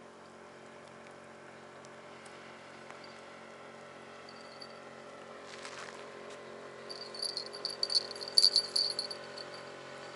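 Small bite-alarm bell on a bottom fishing line jingling in quick uneven shakes, faintly a couple of times early on and then louder for about two seconds in the second half: a burbot tugging at the bait.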